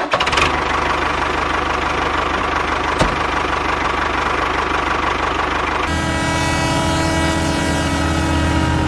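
Tractor engine running steadily with a rough, dense sound. About six seconds in it changes abruptly to a smoother idling hum.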